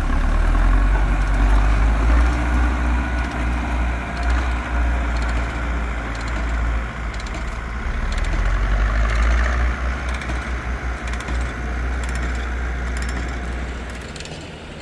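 Zetor tractor's diesel engine running hard under load, a steady deep drone that pulses unevenly in places.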